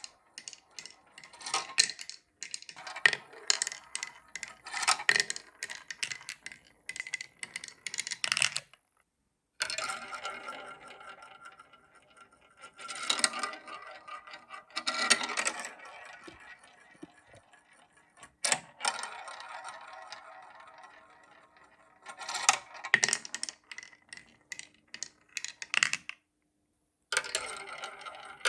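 Marbles rolling and clattering through a LEGO marble run: rapid clicking and rattling of marbles against plastic bricks, in several bursts with short pauses between them.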